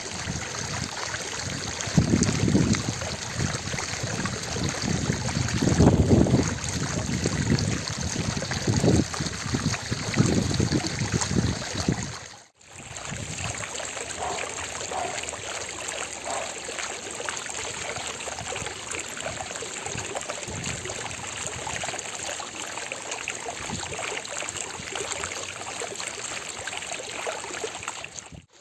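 Water of an ornamental fountain splashing and trickling steadily. It comes in heavier low surges for the first twelve seconds or so, then cuts out briefly and carries on more evenly.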